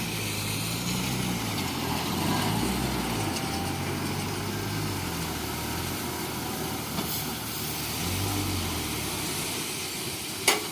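Heavy diesel truck engine running, its speed rising and falling a few times, with a sharp knock near the end.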